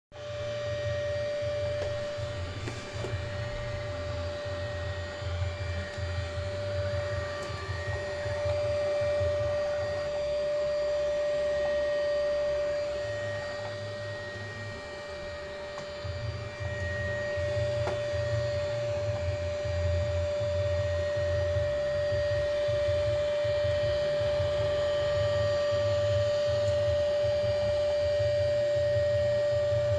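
Samsung Jet Bot 90 AI+ robot vacuum running while it struggles with a light rug: a steady, high fan whine over a low, uneven hum from its motors, which eases off for a few seconds around the middle.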